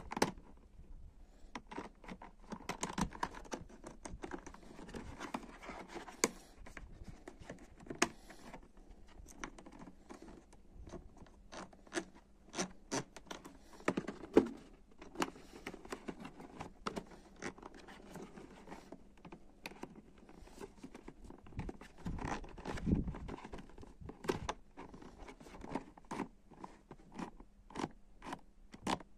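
Close-up handling noises: irregular clicks, knocks, scrapes and rustling as something is moved about and worked by hand.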